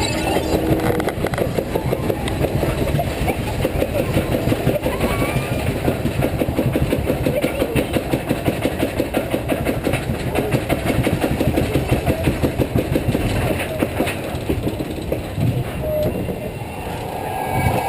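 A moving vehicle with a rapid, steady clatter of several knocks a second over a low rumble.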